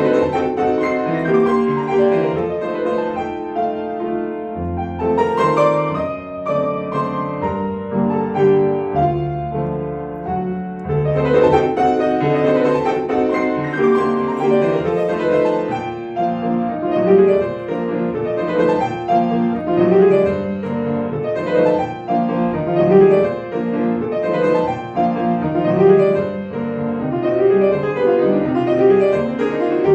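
Solo piano playing a Romantic classical piece, dense and continuous, with quick runs sweeping up and down the keyboard.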